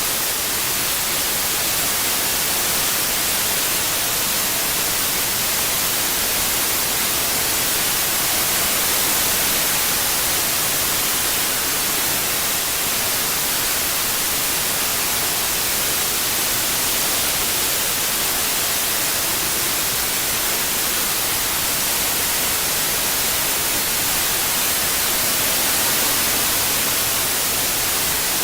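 Steady white noise, an even hiss weighted toward the high frequencies with no pattern or change.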